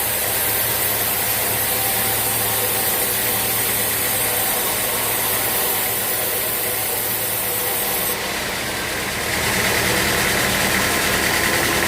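Sawmill machinery running steadily with a low engine hum. About eight seconds in the sound dips briefly, then a higher steady whine joins in.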